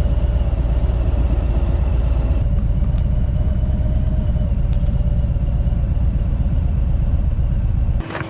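Harley-Davidson Tri Glide trike on the move: a steady, loud engine and road rumble heavy in the low end. It cuts off abruptly near the end.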